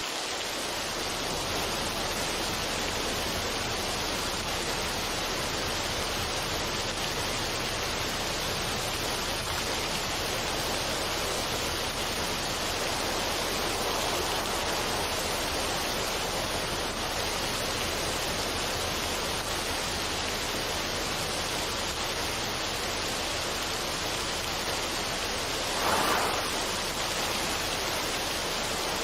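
Steady rushing of water, an even hiss with no rhythm, with one brief louder swell near the end.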